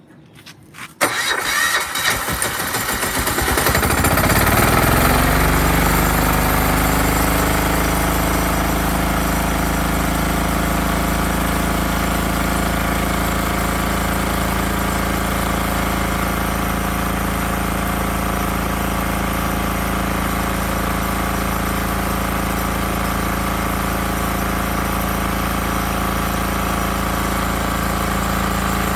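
Yanmar L100M single-cylinder air-cooled diesel engine starting at full throttle: it fires about a second in, its pitch rises as it speeds up over the next few seconds, then it settles into steady, even running.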